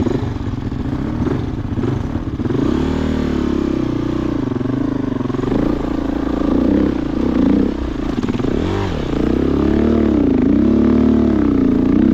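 Husqvarna TE-450 dirt bike's single-cylinder four-stroke engine revving up and down over and over, the pitch rising and falling about once a second as the throttle is worked.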